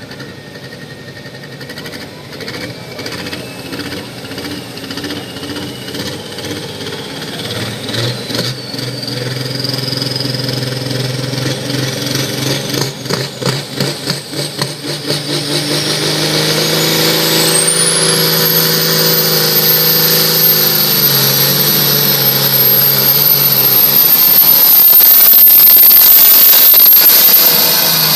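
Pulling tractor's engine running hard under load, with a high whine that climbs steadily in pitch for most of the run and then holds at a high, steady pitch. The sound grows louder through the run and eases slightly near the end.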